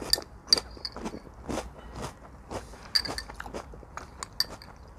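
Close-up crunching of French Toast Crunch cereal being chewed: a light, airy, finely crisp cereal giving irregular sharp crackles, a few a second.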